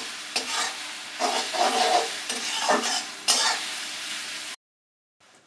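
Garlic paste and onions sizzling in hot oil in a kadai, stirred with repeated scraping strokes against the pan. The sound cuts off abruptly about four and a half seconds in.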